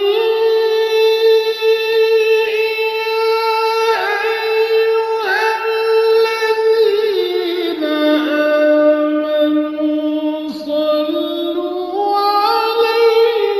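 A Qur'an reciter's solo voice in melodic recitation, drawing out the verse in long held notes that step between pitches, with short ornamental turns around four and five seconds in.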